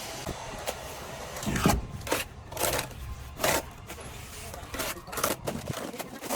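Short scraping strokes, five or six at irregular spacing, the loudest about a second and a half in.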